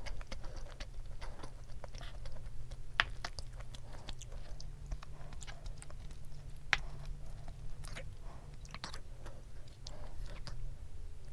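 Close-miked chewing of soy-marinated salmon and rice, with scattered clicks and two sharper knocks of a wooden spoon against a wooden bowl as a fried egg is mixed in. A steady low hum runs underneath.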